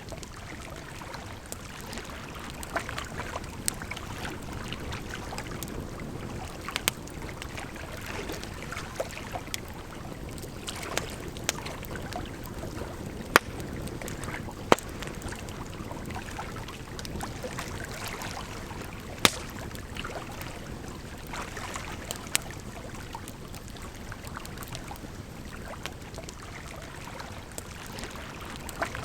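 Campfire crackling with scattered sharp pops, a few of them loud, over a steady rush of flowing water.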